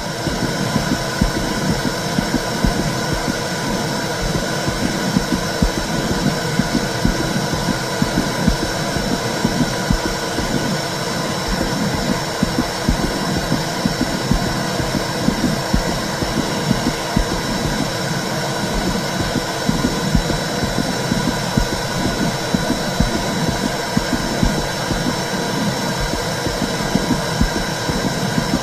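Womb sound for soothing a baby: a steady, low whooshing rumble with a fast, uneven throb running through it.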